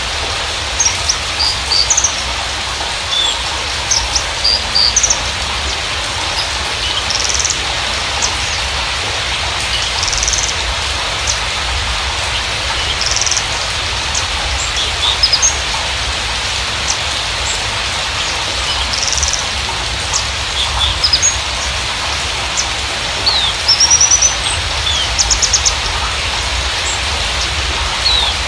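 Javan bushlark (Mirafra javanica parva) singing in short, high chirps and quick trills, scattered with brief gaps, over a steady rain-like hiss.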